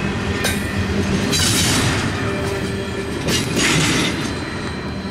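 Double-stack intermodal well cars rolling past on the rails with a steady rumble and wheel clatter, broken by three short high-pitched screeches. The last car goes by near the end and the noise eases off.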